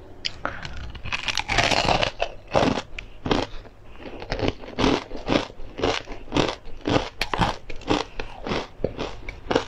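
Close-up biting and chewing of a crispy, seed-covered fried snack: a big crunching bite early, then loud crunches about twice a second as it is chewed.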